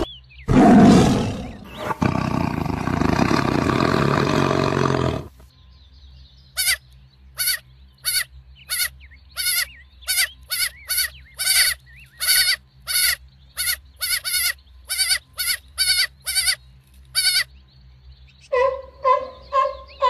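A tiger roaring and growling for about five seconds. Then a young goat bleats in a run of short, high bleats, roughly one or two a second. Near the end a fur seal starts barking in a quick, rhythmic series.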